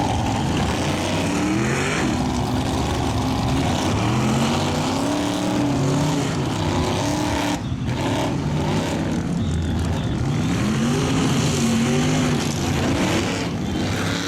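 Ford truck's engine revving hard while mud bogging, the pitch climbing and falling again and again as the throttle is worked. There is a brief drop about halfway through.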